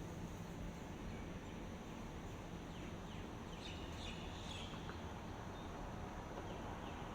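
Steady outdoor ambient hiss with a few faint, high bird chirps about halfway through.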